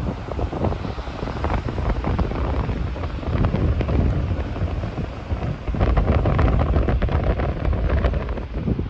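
Strong, gusty typhoon wind buffeting the microphone with a heavy low rumble that rises and falls with the gusts, over a wash of surf.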